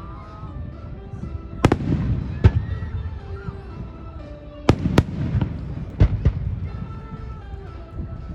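Fireworks going off: about six sharp bangs, several in quick pairs, over a continuous low rumble of further bursts.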